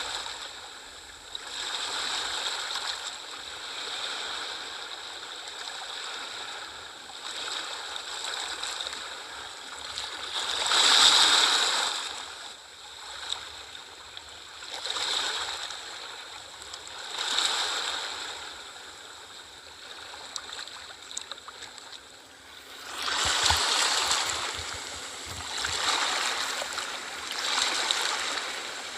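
Sea waves washing in and breaking on the shore in repeated swells every two to three seconds. The biggest surges come about eleven seconds in and again a little after twenty-three seconds.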